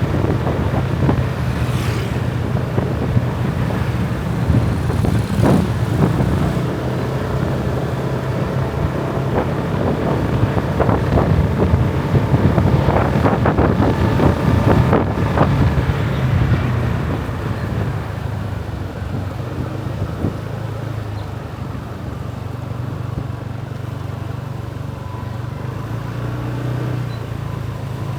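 Motorbike engine running steadily on the move, with wind buffeting the microphone and road traffic around it; louder in the middle, easing off in the last third.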